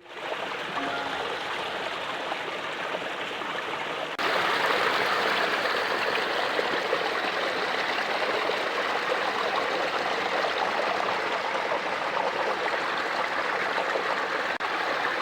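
Running water flowing steadily, stepping up sharply in loudness about four seconds in.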